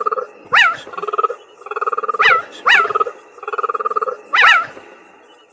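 An animal's raspy, rapidly pulsed calls about once a second, alternating with four short high yelps that drop in pitch.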